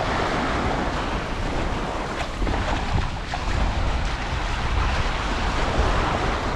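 Surf washing up on a sandy beach, a steady rushing noise, with wind buffeting the microphone and adding a low rumble.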